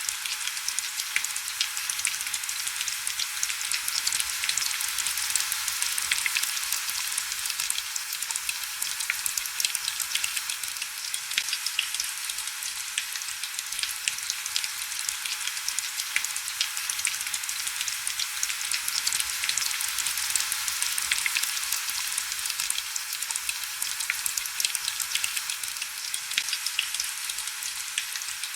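Steady heavy rain on window glass: a dense, even hiss full of fine, crackling drop ticks, with almost no low rumble.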